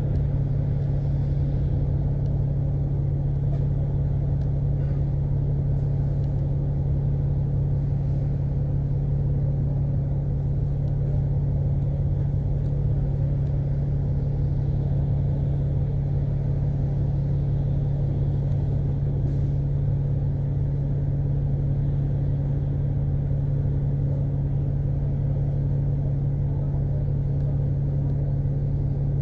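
Engine of an Alexander Dennis Enviro500 MMC double-decker bus, heard from inside the passenger cabin, running with a steady low hum that does not change in pitch.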